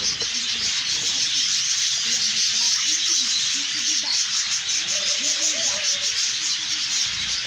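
Dense, steady chatter of many small birds, with pigeons cooing low underneath in repeated short arching calls.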